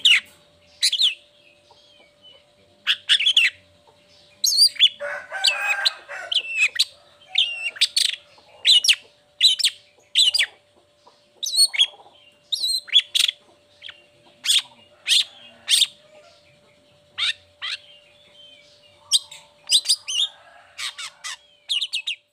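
Long-tailed shrike (cendet) singing: a rapid run of short, sharp high notes, with a harsher, rasping call about five seconds in.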